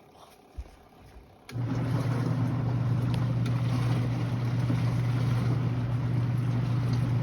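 Portable washing machine starting up about a second and a half in: its motor hums steadily and drives the wash tub, with water churning, then it stops abruptly near the end.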